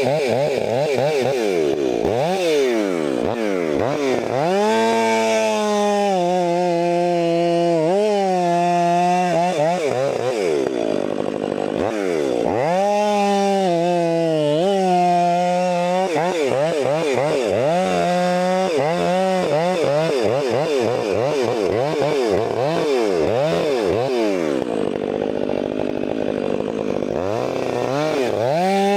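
Two-stroke chainsaw bucking logs. Its engine pitch sags as the chain loads in the wood and climbs back to full revs between cuts, over and over.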